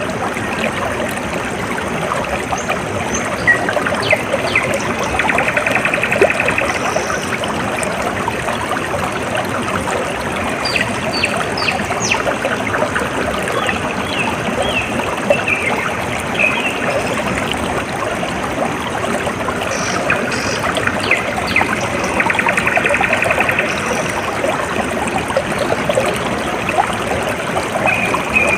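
A small stream trickling and gurgling steadily, with birds chirping now and then over it and a short buzzy trill twice, about five seconds in and again near the end.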